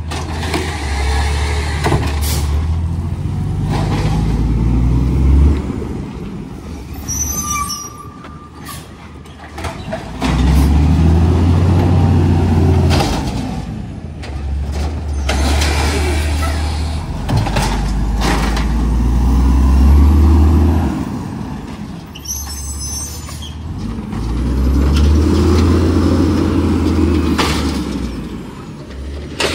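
Garbage truck's diesel engine revving up and down in repeated surges, with a couple of short sharp hisses of air.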